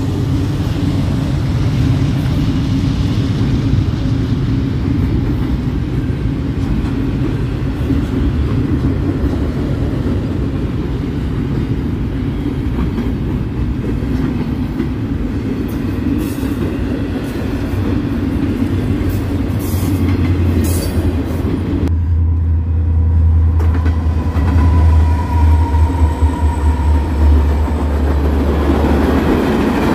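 A train running past, with a steady rumble and rattle of railcars on the track and a few sharp clicks. In the last third a deep, loud low drone takes over.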